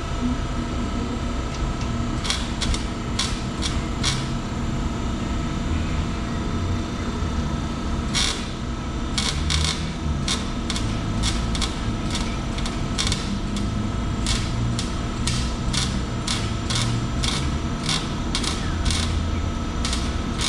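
A steady low mechanical hum with sharp clicks: a few scattered ones at first, then an even run of about two to three a second from about nine seconds in.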